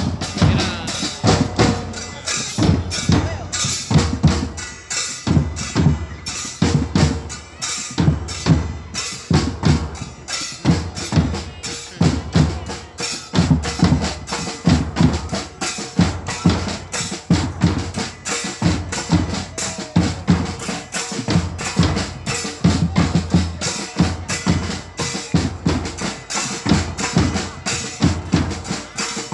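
Drums beating a fast, steady rhythm, with deep bass strokes.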